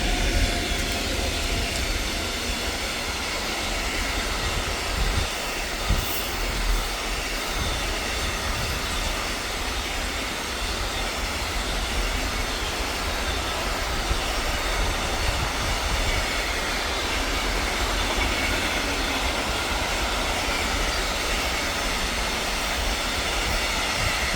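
A train running past on the rails: a steady rush of wheel and rail noise with a few low thumps and faint wheel squeal, fading just after the end.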